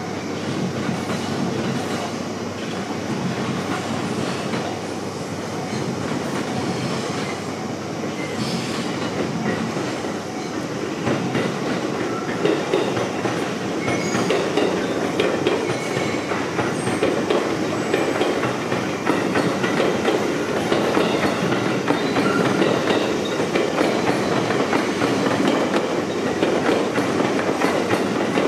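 Electric trains running past, wheels clattering over the rail joints. The sound grows somewhat louder after about twelve seconds.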